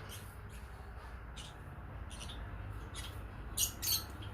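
Small aviary birds chirping in short, high, repeated calls, several a second, the loudest two near the end, over a steady low rumble.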